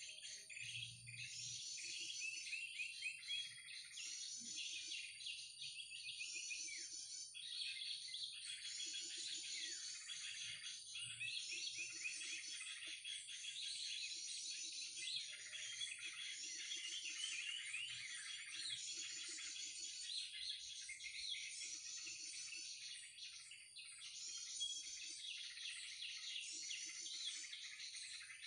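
Dense, unbroken chirping and chattering of many small birds, the krucukan bird-call combination used as a lure for trapping, over a steady high-pitched whine.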